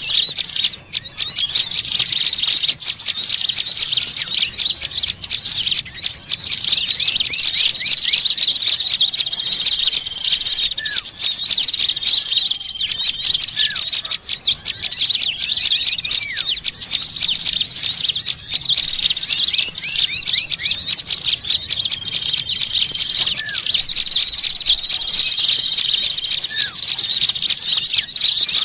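Many small songbirds chirping and twittering at once in a dense, unbroken high-pitched chorus, as used in bird-lure (pikat) recordings to draw small birds in.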